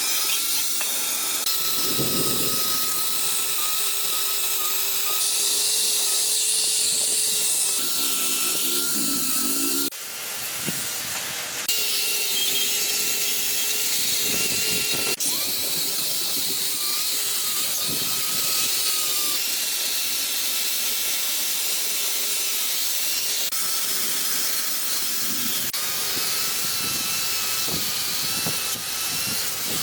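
A power tool running steadily with a strong hiss, dipping briefly about ten seconds in.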